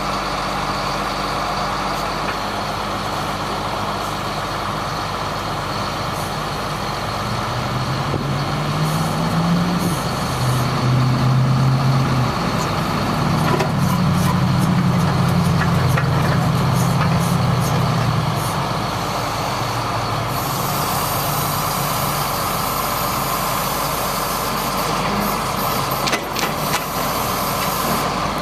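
1999 GMC digger truck's engine running; its speed rises about a third of the way in, holds higher for roughly ten seconds, then drops back to idle. A steady hiss joins about two-thirds of the way through.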